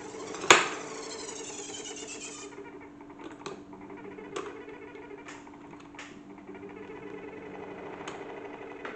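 A salad spinner converted into a toy washing machine, its small motor humming steadily while a cable tie put inside clicks against the spinning basket. There is one loud clack about half a second in, then scattered clicks.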